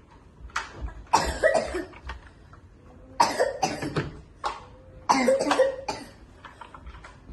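A person coughing in three fits about two seconds apart, each fit made of two or three coughs.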